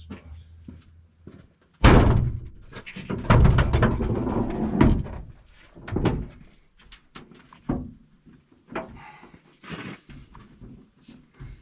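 A low steady hum stops, and about two seconds in a truck door slams shut. A longer stretch of thumping and rattling follows, then scattered clicks and knocks.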